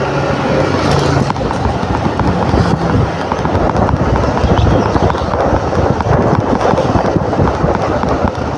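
Scooter engine running while riding, under rough, loud wind noise on the microphone. A steady engine hum fades out about a second in.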